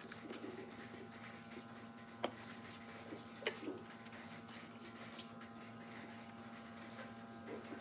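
Faint, steady electrical hum with a few light, sharp clicks, the clearest about two and three and a half seconds in.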